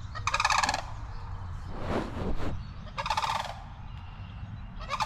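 Two sandhill cranes calling: loud rattling, rolling calls, each about half a second long, coming about every two and a half seconds.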